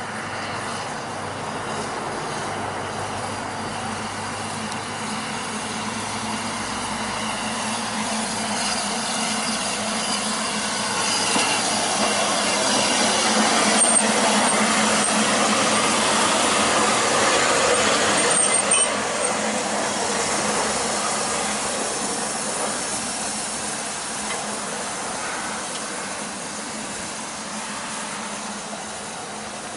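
Ffestiniog Railway narrow-gauge train running on the rails, growing louder to a peak about halfway through, with a couple of brief high wheel squeals, then fading away.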